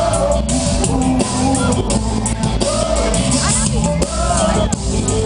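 Live rock band playing through a PA, with drums and pitched instruments or a voice over them.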